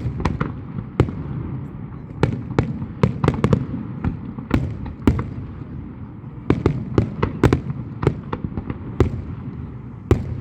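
Fireworks going off in a rapid, uneven barrage of sharp bangs and crackles over a steady low rumble, thickest about two to four seconds in and again around six and a half to seven and a half seconds.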